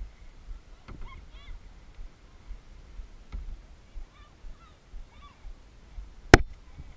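Waterfowl honking in two short runs of calls, over low lapping water noise, with one sharp, loud knock about six seconds in.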